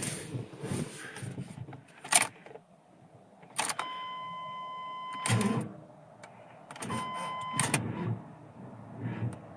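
Two long, steady electronic beeps, the first about a second and a half and the second about a second, with a few sharp clicks before them. No engine cranks: the jump starter gives the Suburban nothing.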